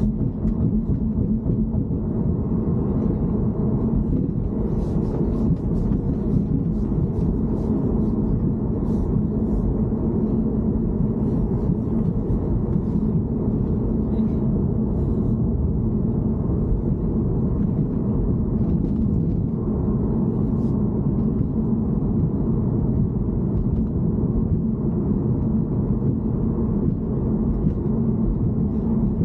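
Steady low rumble of a BMW E90 on the move, with road and drivetrain noise heard from inside the cabin. Faint small ticks come and go, mostly in the first half.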